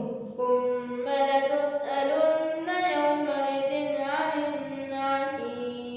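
A young voice reciting the Quran in Arabic in a melodic, chanted style, drawing out long held notes with gliding ornaments.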